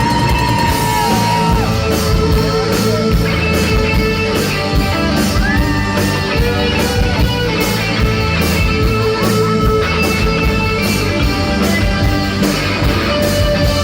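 A live new wave rock band playing through a PA: electric guitar and held keyboard-like notes over a steady drum beat.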